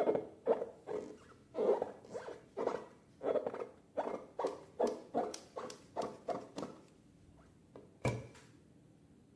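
Slime being squeezed and worked by hand, giving repeated wet, crackly squelches about twice a second that thin out near the end. One sharp snap comes about eight seconds in.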